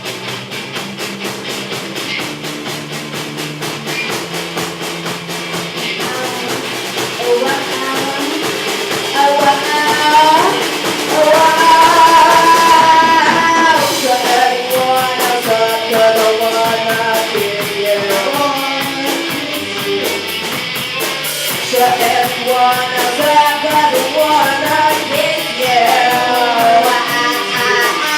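Live rock band playing: guitars over a drum kit keeping a steady beat, with a melodic lead line coming in after several seconds.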